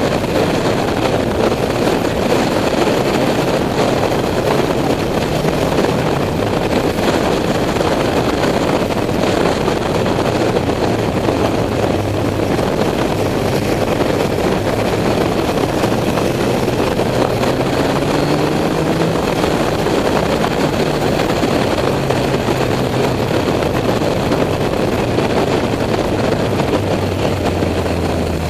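A motorcycle on the move: a steady rush of wind over the microphone with the engine running underneath. The engine's pitch shifts and rises in the second half.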